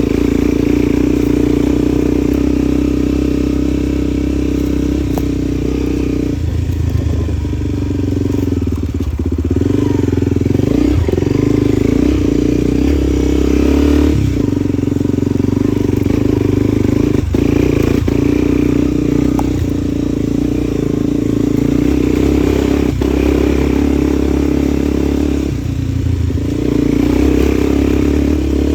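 A motor vehicle engine running steadily, its pitch shifting a few times as it changes speed, with a few brief clatters.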